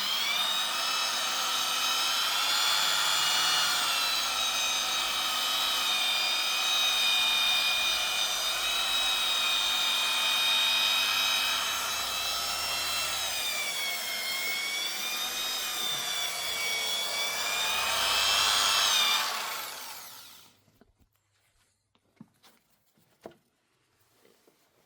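Electric power tool running steadily for about twenty seconds, its motor whine wavering slightly in pitch, then winding down and stopping. A few faint knocks follow.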